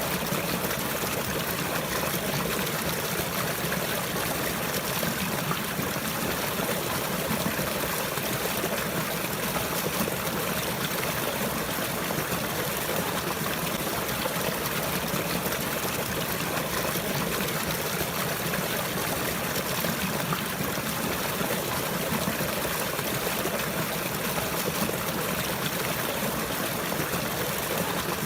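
Continuous flowing, trickling water: a steady, even rush that does not change.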